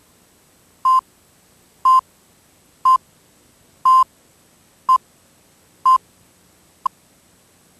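A short steady electronic beep once a second, seven times, the last one clipped short, over faint tape hiss: the countdown-leader beeps at the head of a VHS tape.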